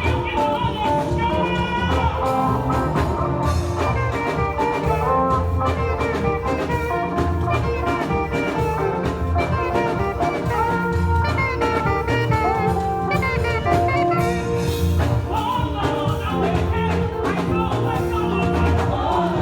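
Praise band music with a drum kit and brass playing at a steady level.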